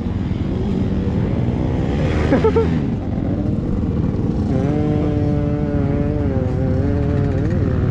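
Motocross dirt bike engine running and revving: the pitch climbs around two seconds in, drops off briefly, then holds steady at higher revs for a few seconds before easing off near the end.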